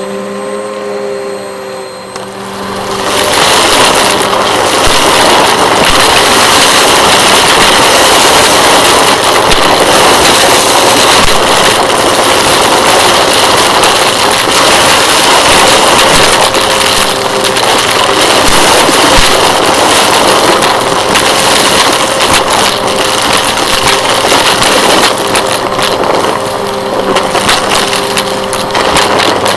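Vacuum cleaner running, its motor giving a steady hum. About three seconds in, a loud rushing of air takes over, with rapid crackles as the cleaner takes in debris.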